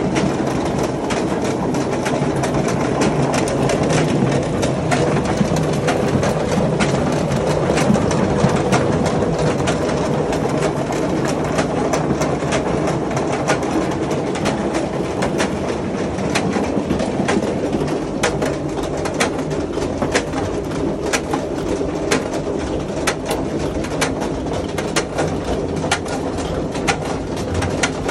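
Golf ball washing machine running: a steady mechanical churn with many sharp, irregular clicks and knocks, which grow more frequent about halfway through.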